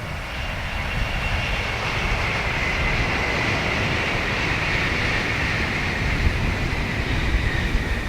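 Tokaido Shinkansen high-speed train passing at speed: a rush of noise that builds over the first second, with a high whine that slides slowly lower in pitch. Wind buffets the microphone underneath.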